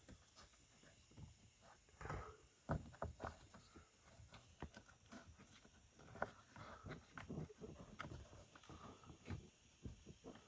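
Faint scattered plastic clicks, knocks and rustling of hands working up under a car's dashboard, fumbling a knee airbag's wiring plug into its connector.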